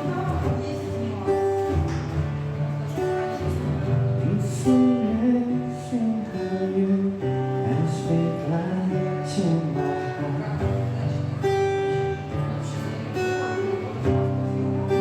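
An acoustic band playing, with a strummed acoustic guitar over a steady bass line and a gliding melody line in the middle.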